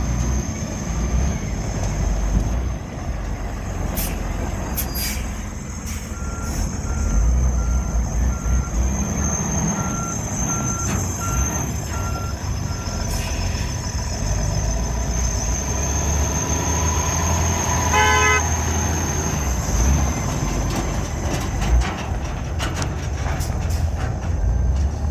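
Freightliner M2 truck engine running with a steady low rumble. A quiet beeping, about two a second, goes on for several seconds, and a short horn toot sounds about three-quarters of the way through.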